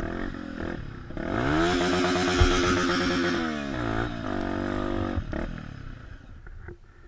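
Trail motorcycle engine revving: it climbs in pitch about a second in, holds high for about two seconds, drops back, then runs lower and fades away near the end.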